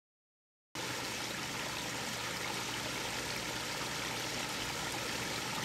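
Steady rush of running water, cutting in suddenly after silence about three-quarters of a second in.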